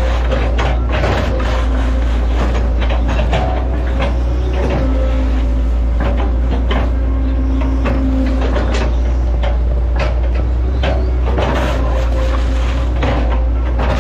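Hitachi Zaxis 110 excavator's diesel engine running with a steady low drone, overlaid by frequent sharp knocks and clanks from the machine at work.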